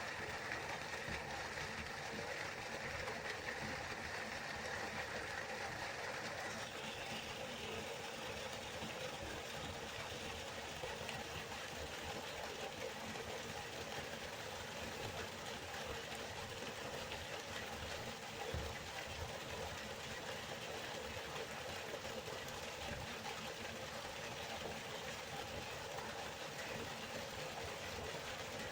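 Steady rushing of a flowing river, an even wash of water noise whose tone shifts slightly about six seconds in.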